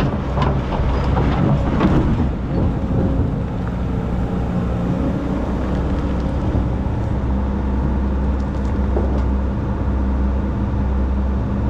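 Excavator diesel engine running steadily, with a few sharp knocks in the first couple of seconds.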